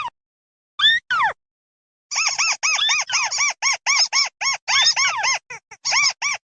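Recorded flock-calling of the mắt xéo bird: two downward-sweeping squeaky calls in the first second and a half, then from about two seconds in a fast run of short, arched, squeaky notes, about five a second.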